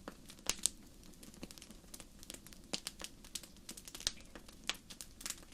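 Wood fire crackling: irregular sharp pops and snaps, a few of them louder, over a faint hiss.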